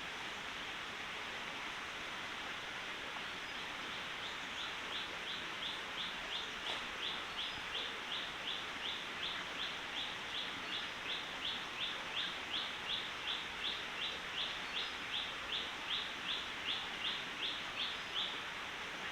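A bird calls a long, even series of short high notes, about two a second, starting a few seconds in and stopping near the end. Under it runs the steady rush of a forest stream.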